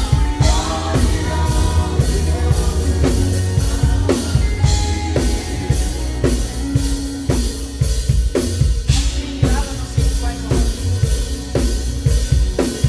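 Live band playing with a drum kit keeping a steady beat on kick and snare over a heavy bass and other pitched instruments.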